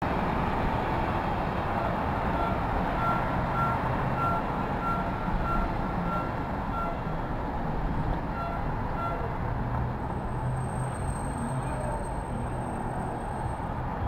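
Steady city street traffic noise, with a vehicle's backup beeper sounding about every half second from a couple of seconds in until about nine seconds in.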